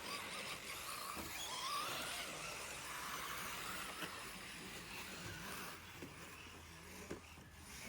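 Electric RC rally cars running on the track, their motors whining in glides that rise and fall with the throttle for the first few seconds, then a steadier background hiss.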